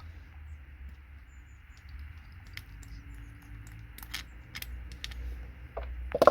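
Scattered light clicks and clinks of small metal tools and scrap parts being handled, with a louder clatter near the end, over a steady low background rumble.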